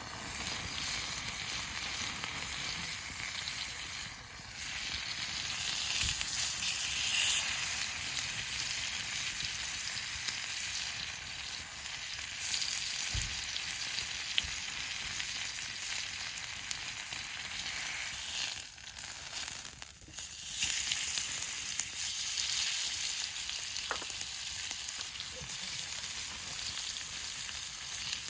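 Food frying in a pan, a steady sizzle with small crackles that dips briefly twice, about four seconds in and again after about nineteen seconds.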